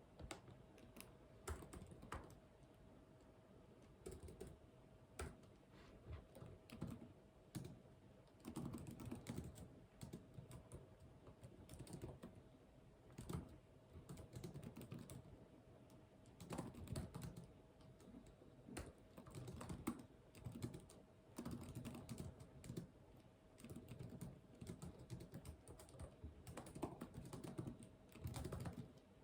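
Computer keyboard typing in irregular bursts of quick key clicks with short pauses between, over a faint steady hum.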